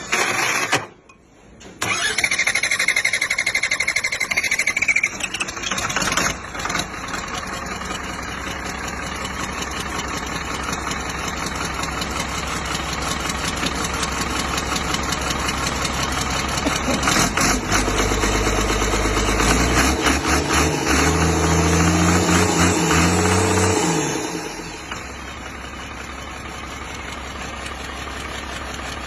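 Mercedes-Benz car engine started about two seconds in and left running. Near the end it is held at raised revs for several seconds, then drops back to a quieter idle.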